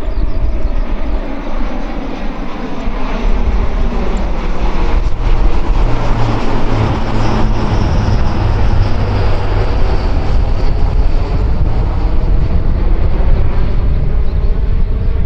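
Loud, continuous engine noise of a fixed-wing military aircraft, heaviest in the low range, with slowly shifting pitch bands.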